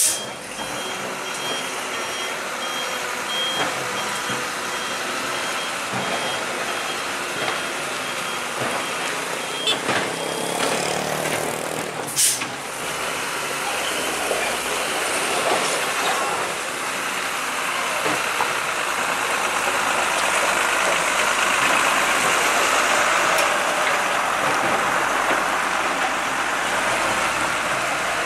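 Heavy vehicle engine running under load, with a reversing alarm beeping steadily for about the first ten seconds. A short burst of hiss comes about twelve seconds in, and the engine noise grows louder through the second half.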